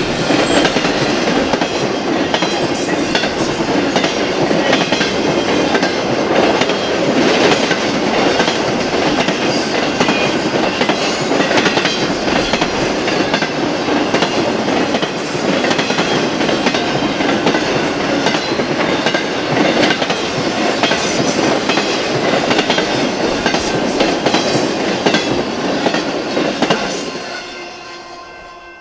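BNSF freight train's cars rolling past close by, wheels clattering over the rail joints and crossing. The noise falls away near the end.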